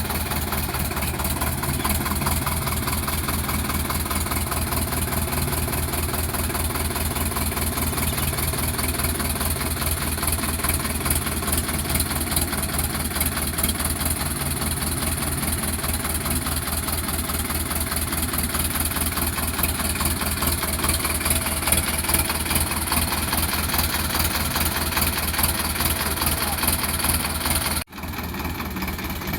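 Sonalika DI 750 tractor's diesel engine running steadily with a fast, even firing beat. Near the end it breaks off abruptly and a quieter engine sound takes over.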